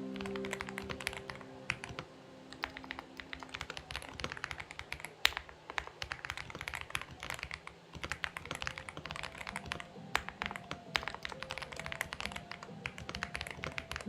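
Typing on a Xinmeng X98 mechanical keyboard: a dense, irregular run of key clicks with brief pauses, one sharper click about five seconds in, over soft background music.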